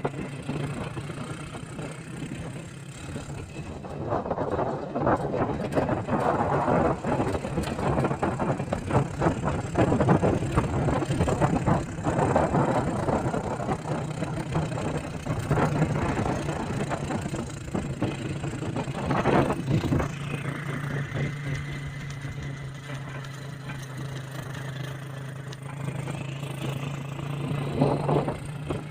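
Motor vehicle engine running with a steady low hum while driving, with uneven road and rattle noise that is heavier for the first half and then eases.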